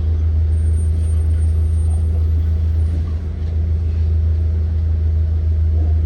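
Ford 7.3L V8 engine of a 2023 Blue Bird Vision school bus running, heard from inside the cabin as a steady low drone.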